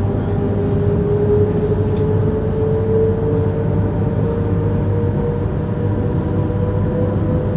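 Electric multiple unit Z 20823 under way: a steady hum with a motor tone that rises slowly in pitch over the first few seconds, then holds.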